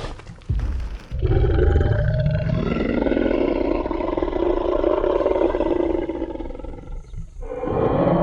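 Tyrannosaurus rex roar sound effect: a long, deep roar lasting about six seconds, then another roar starting near the end.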